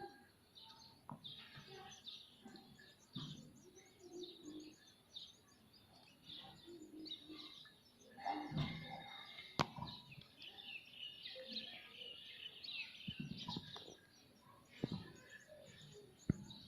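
Ringneck parakeet giving soft, scattered chirps and chatter, busier in the middle, with a few sharp clicks, one loud about ten seconds in.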